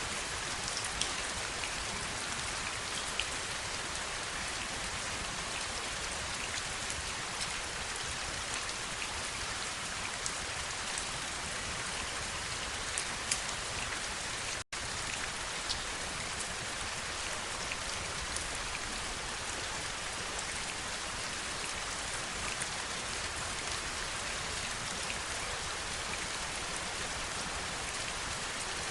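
Steady heavy rain falling, with a dense hiss and many individual drops ticking through it. The sound cuts out for an instant about halfway through.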